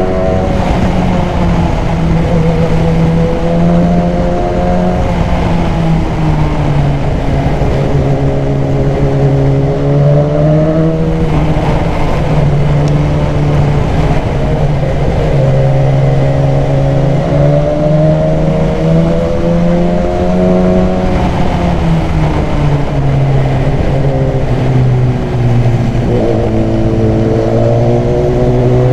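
BMW S1000XR inline-four motorcycle engine, fitted with a K&N high-flow air filter, running under way. Its note climbs and drops back several times as the rider accelerates and shifts, over a steady rush of wind.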